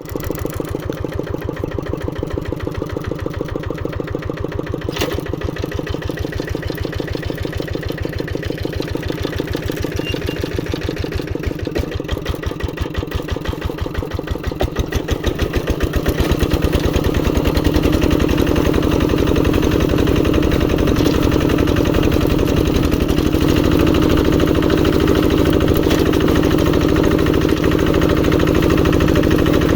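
Kubota RD85 single-cylinder diesel engine running with a steady, even beat. About halfway through it speeds up and gets louder.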